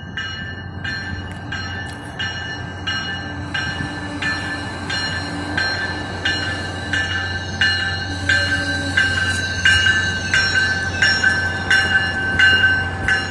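A bell ringing steadily, about two strokes a second, over the low, steady rumble of a passing MBTA commuter train.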